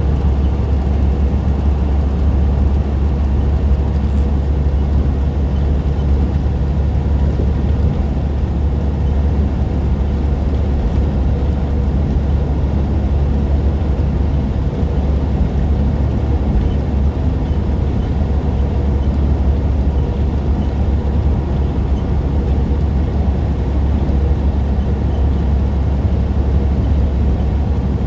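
Semi-truck on the road at steady speed: a loud, even low drone of engine and road noise with no changes or separate events.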